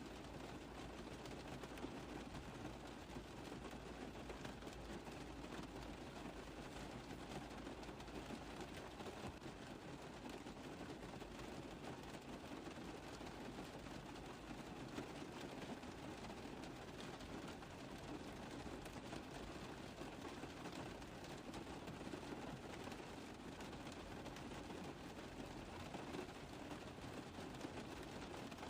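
Steady rain tapping on a car roof, an even, unbroken wash of many small drops.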